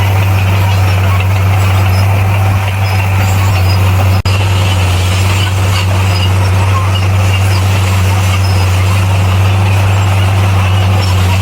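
Bulldozer's diesel engine running at a steady speed, a loud constant low hum with a brief break about four seconds in.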